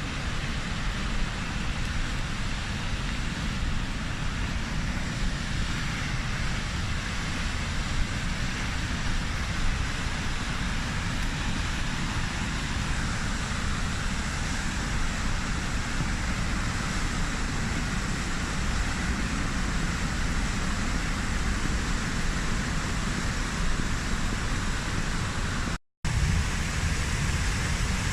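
High Force waterfall on the River Tees: a steady, unbroken rush of falling water. It cuts out for a moment near the end.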